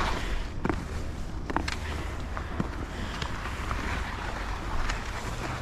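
Skis sliding over snow with wind rumbling on the microphone, and a few short sharp clicks.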